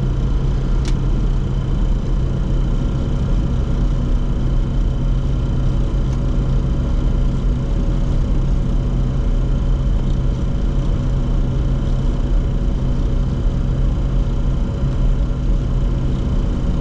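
Steady flight-deck noise of a Bombardier Challenger 604 on final approach with gear down and flaps at 45: a constant low rumble of airflow and engine with a few steady hums running under it. A single light click is heard about a second in.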